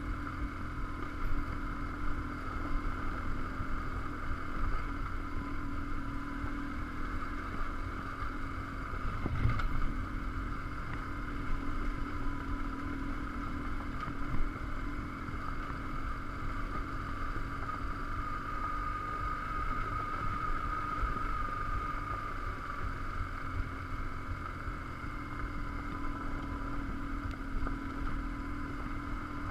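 BMW R1150GS Adventure's boxer twin running steadily under way on a gravel track, with a constant low rumble; a single knock about nine and a half seconds in.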